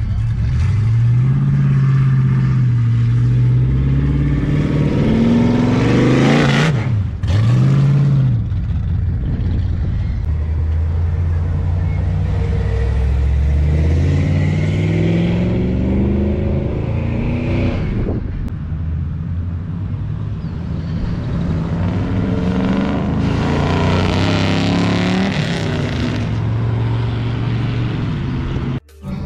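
A car engine accelerating hard, its pitch climbing for several seconds and then dropping at each gear change, repeated several times over road and wind noise.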